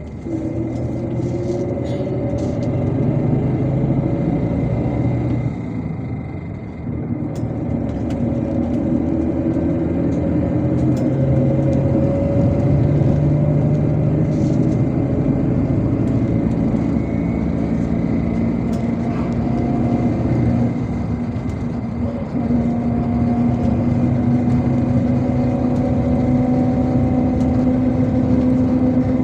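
MAZ-257 bus heard from inside the passenger cabin while driving: engine and road noise, the engine note climbing steadily, falling back briefly about a quarter of the way in and again about two-thirds in, then climbing again.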